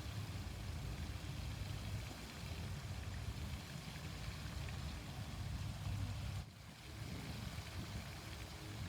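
Outdoor fountain water splashing steadily, with a low rumble underneath; the sound dips briefly about six and a half seconds in.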